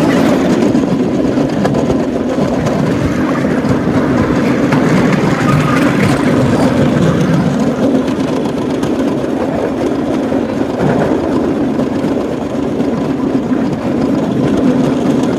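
Cambodian bamboo train (norry) running along the rails, its small engine giving a steady, loud drone.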